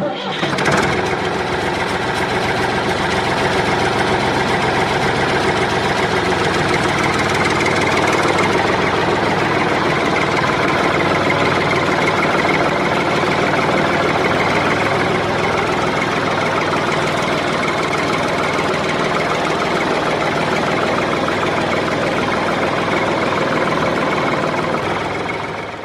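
Engine of the sand-hauling work machines running steadily with a dense, even drone and a knocking quality.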